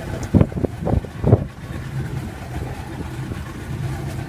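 Boat engine running steadily with a low hum, with a few dull low thumps in the first second and a half.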